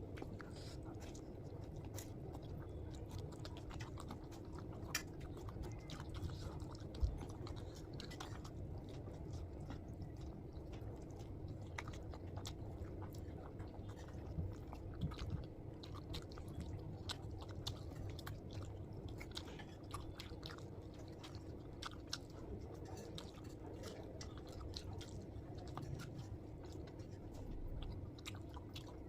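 Close-miked chewing and biting of food, with many small irregular crunches and wet mouth clicks over a faint steady hum; one sharper knock stands out about seven seconds in.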